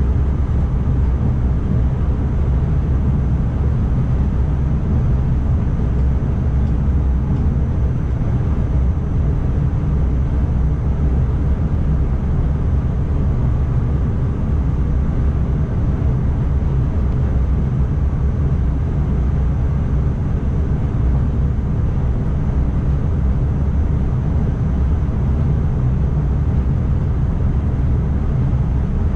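Steady low rumble inside the driver's cab of an NS ICMm electric multiple unit running along the line, with no change in pace.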